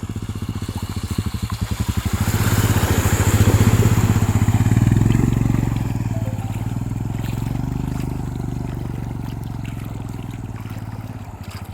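Motorcycle engine running while riding, its rapid firing pulses building to a peak a few seconds in and then easing off to a steady run, with a rush of wind noise over it.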